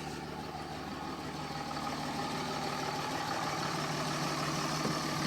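Dodge Ram 2500's 5.9-litre Cummins inline-six turbo-diesel idling steadily, shortly after a cold start.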